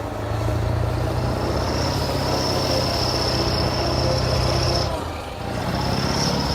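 Kirovets heavy tractor's diesel engine running under steady power, a deep hum with a steady high whine over it. The sound dips briefly about five seconds in, then comes back up.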